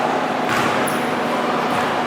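Crowd noise in a gym during a basketball game, a steady din of spectators, with a brief high squeak about a second in.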